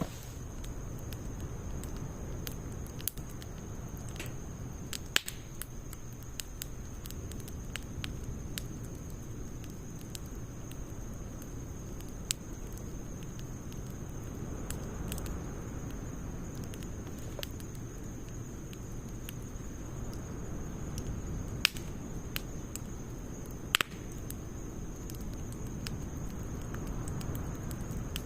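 Wood fire of split logs burning in a Snow Peak fire stand: a steady low rush with scattered sharp crackles and a few louder single pops.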